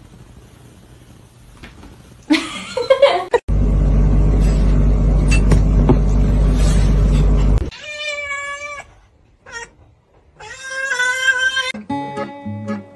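Kitten meowing: two drawn-out cries, each about a second long, near the end. Before them a loud, steady low hum runs for about four seconds and stops abruptly.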